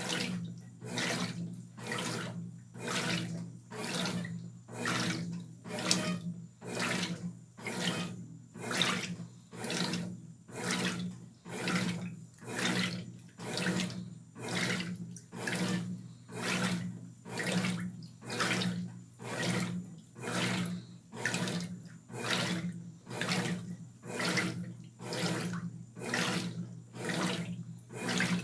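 Brastemp Tira Manchas Pro 12 kg washing machine agitating a load in water: a rhythmic swish of water and clothes about once a second over the steady hum of the drive motor, the wash stroke of the cycle.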